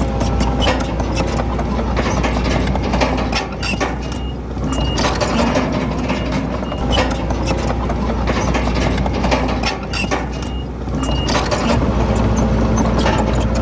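Komatsu D31PX bulldozer working: its diesel engine running under load with steel tracks clanking and rock and soil grinding. Short high beeps sound twice, around a third of the way in and again after ten seconds.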